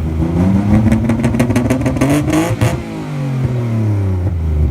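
Nissan Skyline engine revved hard, its pitch climbing and then falling back after about three seconds. A rapid string of exhaust pops and crackles runs through the top of the revs.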